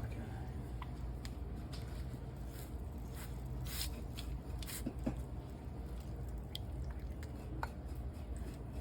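Pastry brush dabbing melted honey butter onto the tops of hot biscuits: soft, wet, irregular dabs and light taps over a steady low kitchen hum.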